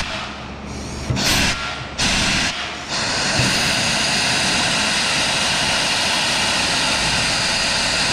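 Power tool working on the metal fuel tank, a loud hissing whir: a few short bursts over the first three seconds, then running steadily until near the end.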